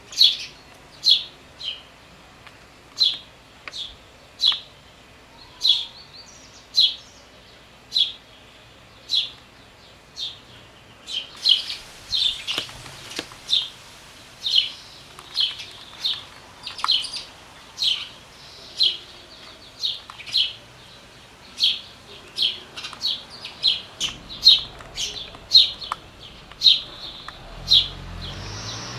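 Hungry chicks making begging calls: short, high chirps repeating about one to two a second, coming in quicker runs at times.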